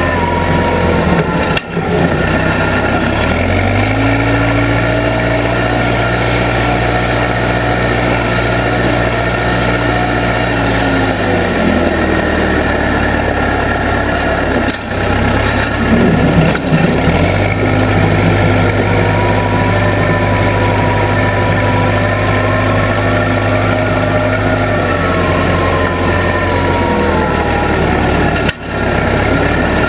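Case 580B backhoe engine running under work, its speed rising and falling several times as the machine is worked, with a fainter whine that glides up and down with it.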